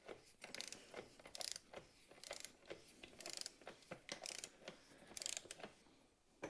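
Ratchet wrench clicking in repeated short strokes, a quick run of pawl clicks about once a second.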